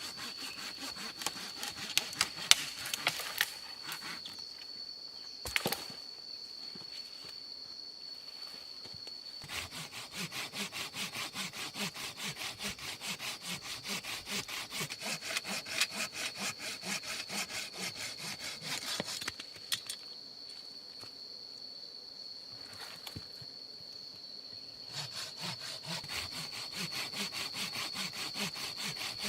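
A saw cutting through wood with steady back-and-forth strokes. It stops for a few seconds about four seconds in and again about twenty seconds in, then starts again.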